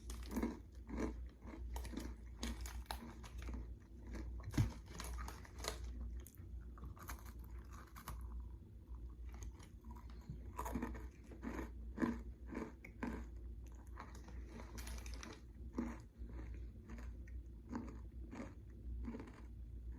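Close-up chewing of a crunchy oats-and-honey granola bar: a steady run of crisp crunches a couple of times a second. A low, steady hum runs underneath.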